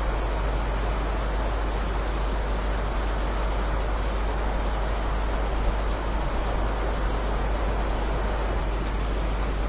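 Steady rain falling in a dense, even hiss, with no thunder and no single drops standing out.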